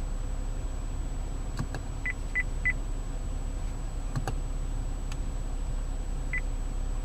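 Short beeps from a car's infotainment screen as its controls are worked: three quick beeps about two seconds in and one more near the end, with a few clicks from buttons or the control knob. Under them runs a steady low hum inside the cabin.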